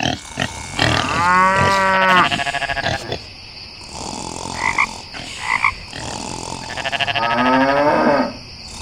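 Two long, low animal calls about six seconds apart, each a drawn-out pitched call with a pulsing end. Two short high chirps come between them.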